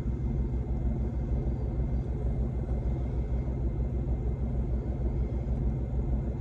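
Semi-truck diesel engine idling: a steady low running sound with an even pulse.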